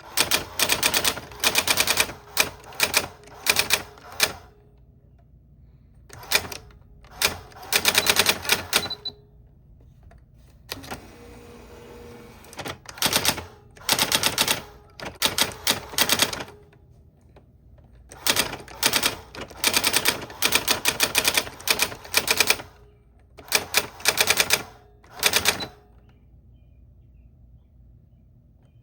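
Old typewriter being typed on: quick runs of sharp key strikes in bursts, broken by pauses of a second or two. About eleven seconds in there is a short, softer rasping stretch.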